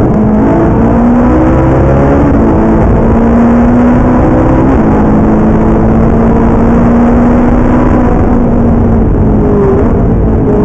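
Ferrari 458 Italia's V8 engine heard from inside the cabin while lapping a race track, its pitch climbing with a gear change about five seconds in, holding, then falling near the end as the car slows.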